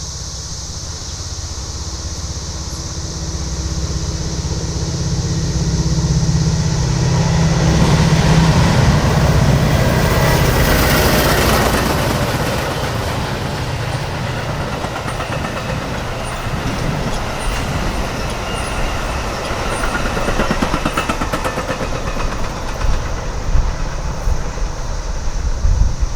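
Metra diesel commuter train passing: the locomotive's drone and rumble build to a peak about ten seconds in, then the cars' wheels click steadily over the rail joints. A loud, steady cicada chorus runs underneath, about as loud as the train.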